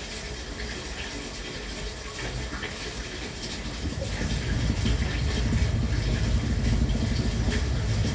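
Thunderbird limited express train running: a low rumble that swells about four seconds in, under a steady hiss.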